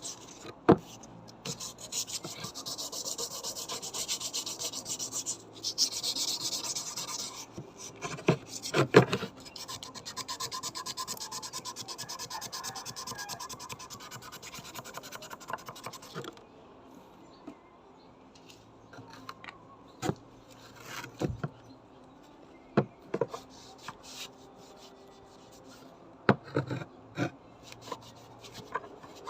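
Hand rubbing and filing strokes on a bayonet scabbard: a dense rasping for about the first half, broken by a few sharp knocks. It then drops quieter, leaving scattered clicks and knocks as the piece is handled.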